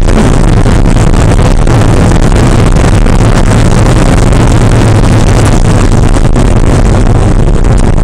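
Porsche 968's 3.0-litre four-cylinder engine running hard at a steady pitch, very loud and clipping the recording.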